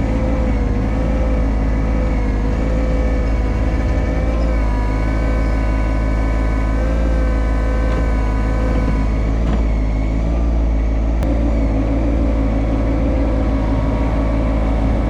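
Yanmar SA324 compact tractor's three-cylinder diesel engine running steadily, its pitch wavering slightly.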